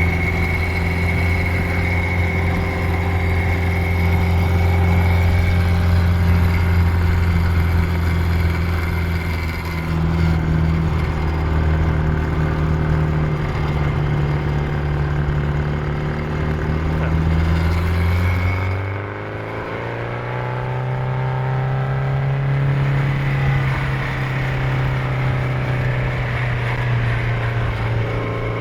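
Supercharged 1328 cc MG XPAG four-cylinder engine with a Volumex blower and side-exit Brooklands exhaust, running steadily under way. About two-thirds of the way through, the note dips briefly, then climbs and settles at a higher pitch.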